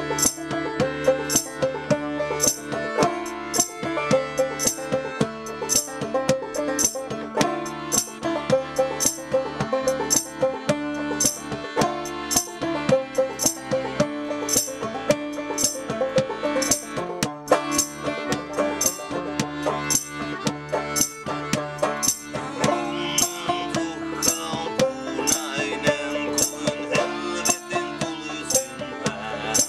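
Banjo-driven folk-punk played live by a duo: a plucked banjo with a steady percussive beat of sharp regular ticks.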